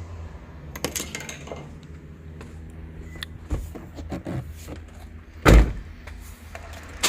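Scattered clicks and knocks of handling in and around a vehicle over a low steady hum, then one loud heavy thump about five and a half seconds in, like a car door shutting.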